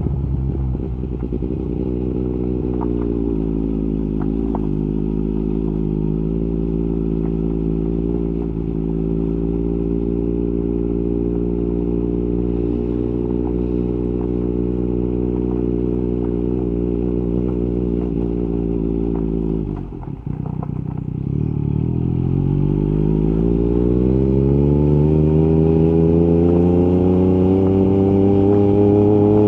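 Yamaha MT-09 SP's three-cylinder engine through an Akrapovic carbon exhaust, running at steady revs for about twenty seconds. Then the revs drop briefly and climb in a long, steady rise as the motorcycle accelerates.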